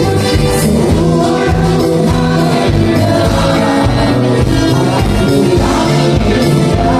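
Live band music with a steady beat, bass and drums, and singing.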